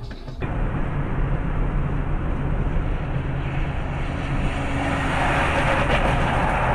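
Vehicle driving noise heard from a dashcam inside a moving car: a steady engine and road rumble with tyre and wind hiss that grows louder in the second half. It starts abruptly about half a second in.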